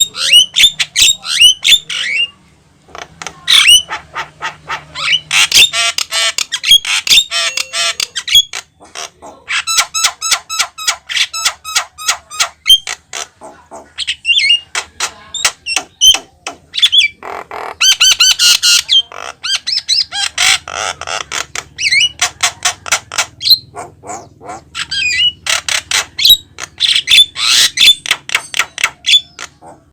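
Javan myna singing loudly: a fast, varied run of sharp chirps, squawks, whistles and rapid clicking trills, broken by a couple of short pauses.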